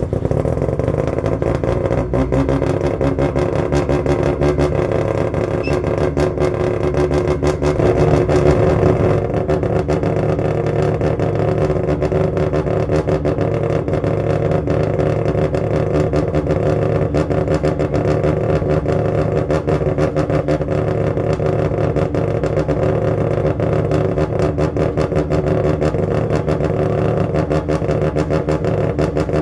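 Mazda rotary (Wankel) engine running at fast idle just after a cold start, a steady buzzing drone. It is a little louder around eight seconds in, then drops slightly and holds steady.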